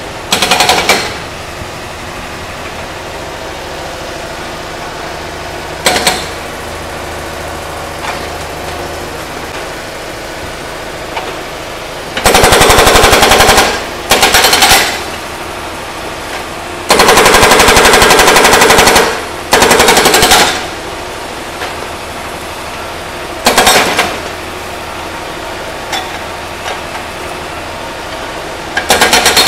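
Hydraulic breaker on a Kubota U50-5S mini excavator hammering an old engine block in bursts of rapid blows, some brief and a few lasting about two seconds. Between the bursts the excavator's diesel engine runs steadily.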